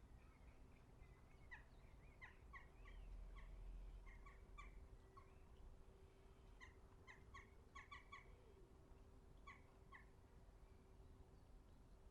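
Faint garden bird calls: short, sharp chirps in quick clusters, with a pause between the two groups, over a faint steady hum.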